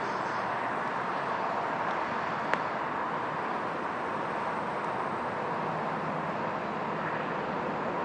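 Steady wash of distant road traffic, with one sharp click about two and a half seconds in.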